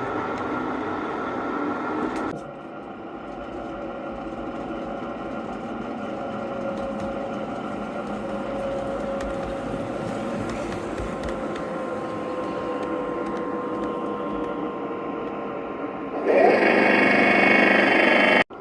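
LGB large-scale model trains running: a steady whir of small electric motors and wheels on the track, with an abrupt change about two seconds in. Near the end a much louder sound with several steady high tones comes in for about two seconds and cuts off suddenly.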